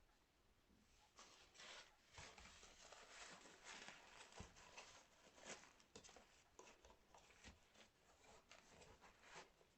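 Faint, irregular rustling and light crackling of a toy doll's diaper being handled, starting about a second in.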